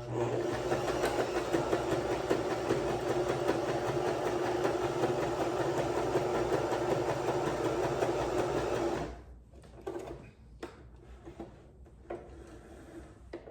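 Janome Pink Sorbet sewing machine running steadily, stitching a zigzag stitch. It stops abruptly about nine seconds in, followed by a few faint clicks.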